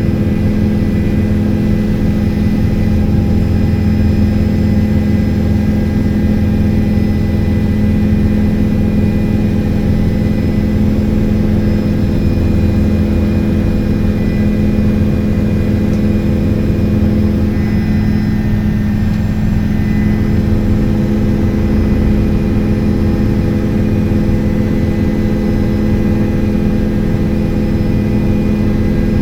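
Helicopter engine and rotor running with a steady, unchanging drone, with faint high whining tones over it.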